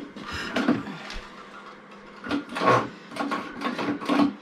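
Single-cylinder Honda ATC engine being pull-started by its recoil starter: several pulls, each turning the freshly rebuilt engine over without it catching.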